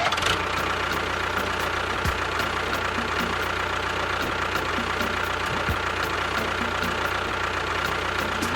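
Small engine or motor running steadily with an even mechanical hum.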